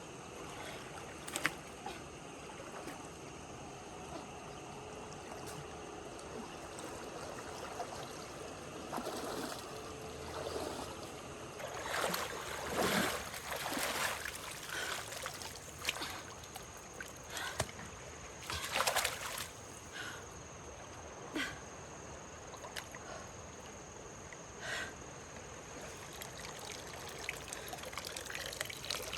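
Water trickling and splashing, with louder splashes twice partway through and scattered light knocks.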